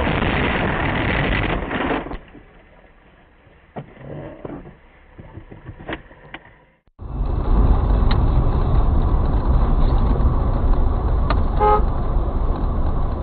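Road and engine noise of cars in traffic, heard from dashcams, dropping away to a quieter stretch with a few sharp clicks before coming back loud. A short car horn honk sounds near the end.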